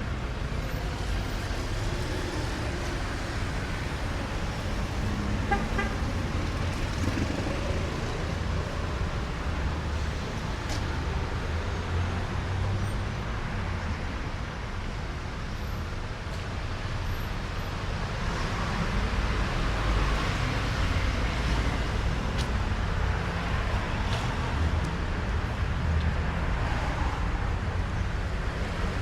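Road traffic on a city street: cars passing with a steady low rumble, growing louder in the second half. A short horn beep sounds about six seconds in.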